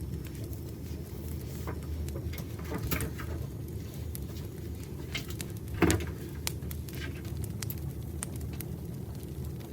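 Campfire crackling: a steady low rumble of burning wood with scattered sharp pops and snaps, one louder pop a little past the middle.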